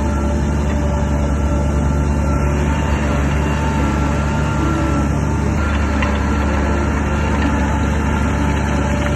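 Heavy diesel engine of an earthmoving machine running steadily at an even pitch, with a slight change in tone about five and a half seconds in.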